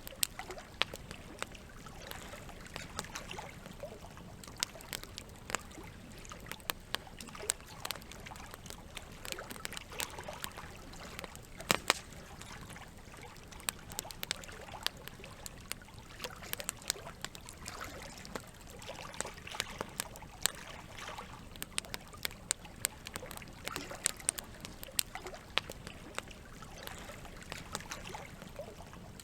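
Campfire crackling, with frequent irregular sharp pops, over a steady trickle of running water. One pop about halfway through is louder than the rest.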